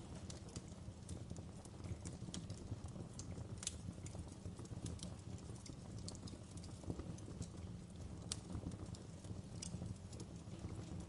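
Wood fire crackling: irregular sharp pops and snaps, a few a second, over a steady low rumble of the burning logs.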